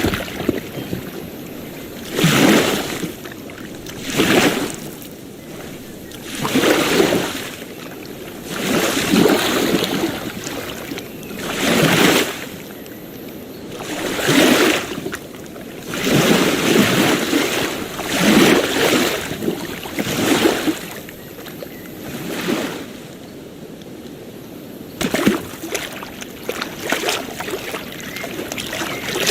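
Small ocean waves breaking and washing up a beach, a rush of surf every two to three seconds over a steady hiss.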